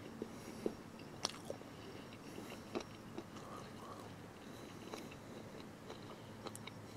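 A man quietly chewing a bite of firm grilled sausage, with faint mouth clicks and small wet sounds.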